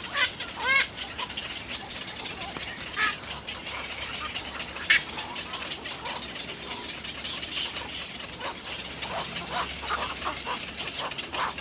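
Little egrets calling at the nest: a quick run of short arched call notes just after the start, single sharp calls about three and five seconds in, then a scatter of softer calls and clicks.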